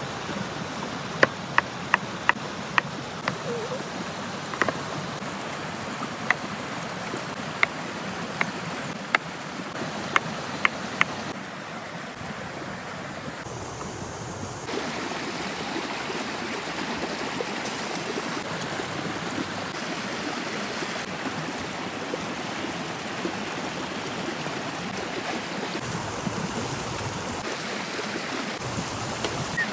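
Steady sizzling hiss of food frying over a campfire, with sharp crackles and snaps through the first ten seconds or so.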